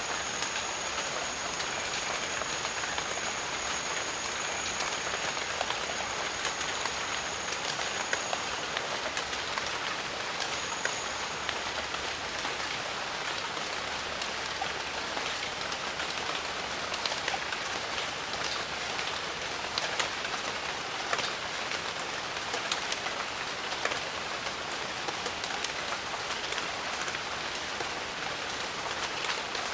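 Steady rain falling in a jungle, with many sharp individual drop hits over the continuous wash. A thin high steady tone sounds over the rain and fades out about a third of the way in.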